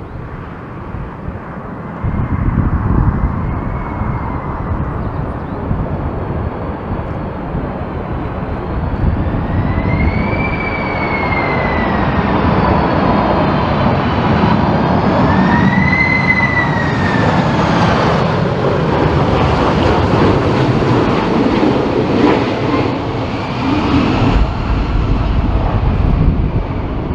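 Boeing 747's jet engines on a landing approach: a loud, steady rumble that swells about two seconds in, with a fan whine that rises and falls in pitch three times.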